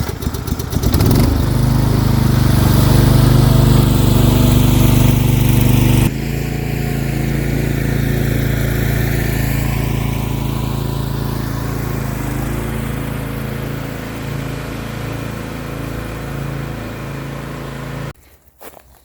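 Lawn mower engine revving up about a second in, then running steadily under load while towing a bundle of branches; the sound drops suddenly in level about six seconds in and stops shortly before the end.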